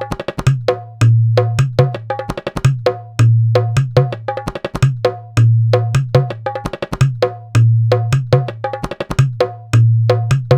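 Sampled Indian hand-drum rhythm from the SwarPlug 4 virtual instrument: a repeating pattern of sharp, higher strokes and a deep, ringing bass stroke, cycling about every two seconds.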